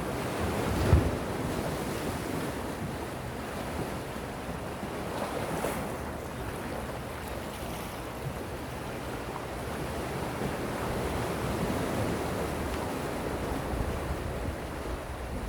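Gentle sea waves washing in, a steady surf hiss with slow swells, and wind buffeting the microphone. A brief low thump comes about a second in.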